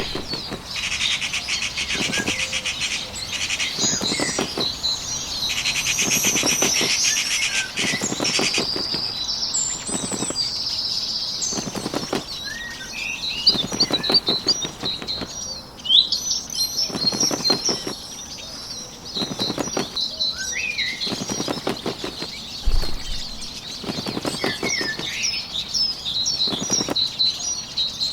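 Bird wings flapping in a dozen or so short fluttering spells, over high chirping and trilling birdsong.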